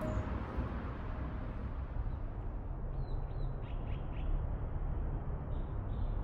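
Outdoor ambience: a steady low rumble, with a few short bird calls about halfway through and again near the end.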